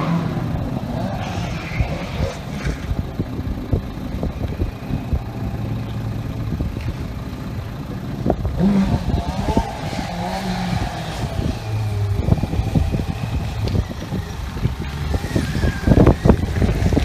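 Stunt motorcycle engine running and revving up and down, with scattered clicks and voices in the background.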